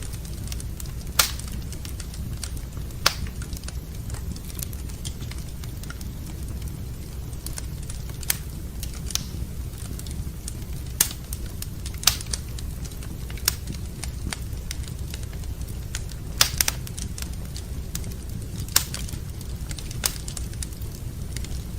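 Wood fire burning in a fireplace: sharp, irregular crackling pops every second or two over a steady low rumble.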